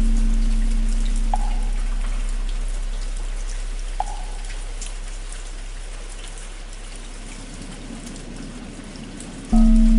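Steady rain with a deep temple bell slowly fading from an earlier strike, then struck again near the end, its low hum swelling back. Two single hollow knocks of a wooden fish (muyu) fall in between, a few seconds apart.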